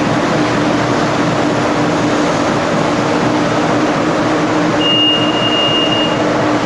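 Big Brute wet and dry industrial vacuum cleaner running steadily with a constant motor hum and airflow noise, sucking up waste oil; a thin high whistle joins in for about a second around five seconds in.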